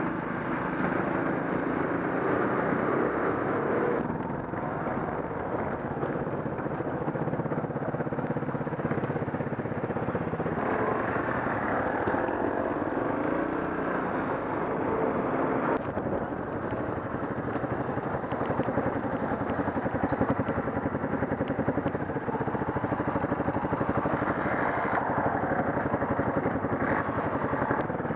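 Trail motorcycle engine running at low speed on a gravel track, heard from the riding bike itself. The engine note changes several times as the throttle opens and closes.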